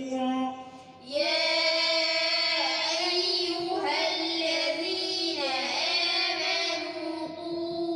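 A group of children chanting a Quran verse in unison, repeating it back after the reciter in a melodic recitation; their voices come in about a second in and hold long drawn-out notes.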